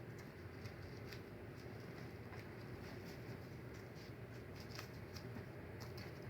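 Faint rustling and light scratching from wound dressings and bandage wrappings being handled, with scattered soft ticks over a low room hum.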